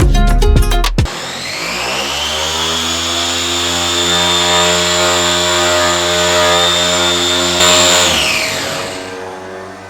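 Electric car polisher spinning up with a rising whine, running steadily on a headlight lens to polish off its haze, then winding down about eight seconds in.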